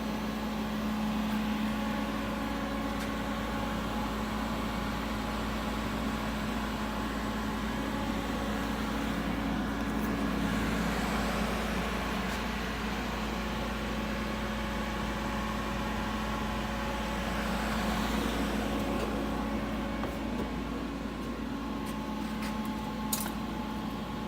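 2008 Anderson CNC router running a program, with a steady electric hum. A whine rises about ten seconds in and falls away around eighteen seconds, and there is a single sharp click near the end.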